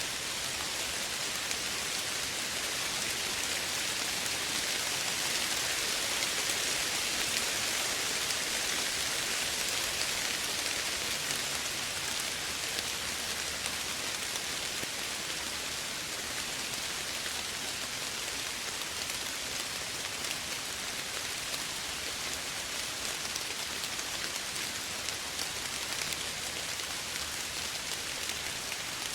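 Steady soft rain falling, an even hiss with fine pattering of drops.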